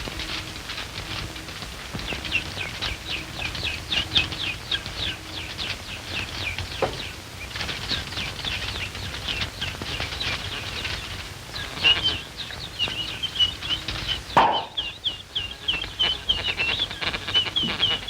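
Fast bird-like twittering: a run of short, high, falling chirps, about four or five a second. About two-thirds of the way through there is one louder swooping sound, and after it the chirps carry on at a steadier pitch. A faint hum of an old soundtrack runs underneath.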